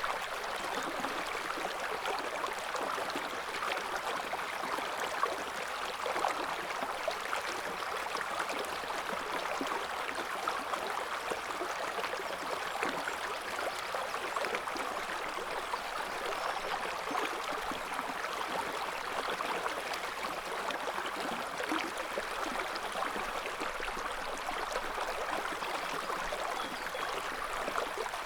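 River water flowing over rocks: a steady rushing and gurgling of a shallow current, with small splashes flickering through it.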